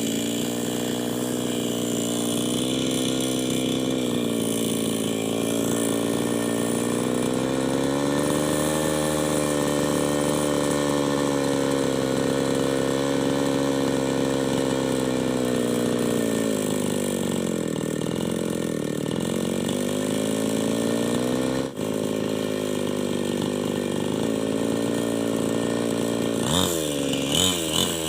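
Two-stroke New West 788 chainsaw running steadily under load while ripping a log lengthwise into beams. Its pitch sags for a couple of seconds about two-thirds of the way through, then rises sharply and revs in quick pulses near the end.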